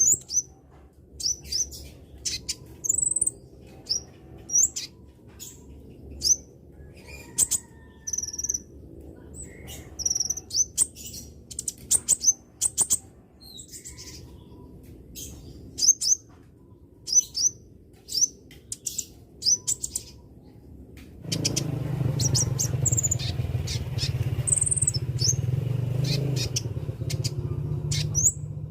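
Short, sharp, high-pitched chirps of a small songbird (konin), repeated irregularly, one or two a second, in a bird-lure recording. About two-thirds of the way through a low background hum comes in louder beneath the calls.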